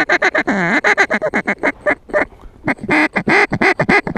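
Mallard duck calls blown in loud, rapid runs of hen quacks, about five or six a second, with a short pause partway through.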